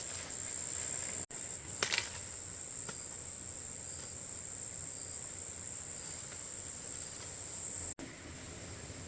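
Steady high-pitched insect chorus, trilling without a break. A couple of short rustling clicks come about two seconds in, and the sound cuts out for an instant twice.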